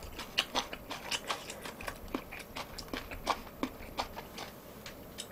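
Soft, irregular wet clicks and smacks of a person chewing food close to the microphone.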